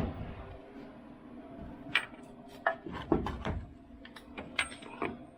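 Hand tools clinking and tapping on metal, a series of scattered light metallic clicks over a steady low hum, as wrenches or sockets are tried against the steering linkage.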